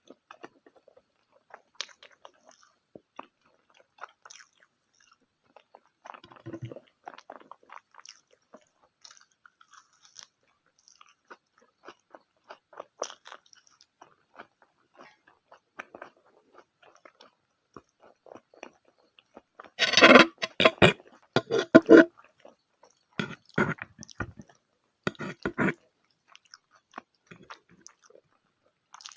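Close-miked eating: soft chewing and wet mouth clicks, with a run of loud crunchy bites about two-thirds of the way through and a few more shortly after.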